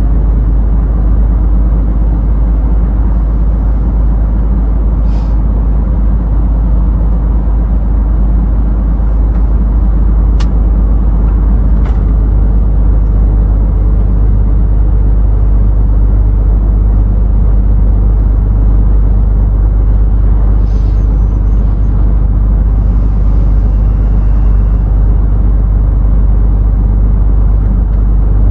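Scania truck driving at a steady speed, its low engine drone and road rumble running continuously and evenly, with two faint short clicks near the middle.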